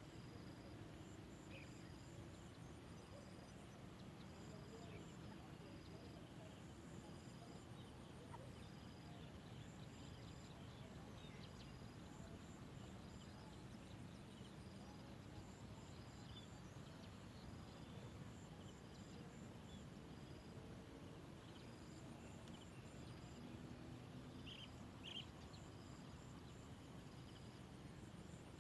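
Faint outdoor ambience: insects chirping in short, evenly repeated high notes about once a second, over low background noise.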